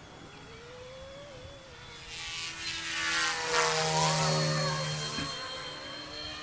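Yu Xiang F07S RC Huey helicopter in flight, its dual brushless motors and rotors whining with shifting pitch. It grows louder from about two seconds in, peaks in the middle, then eases off.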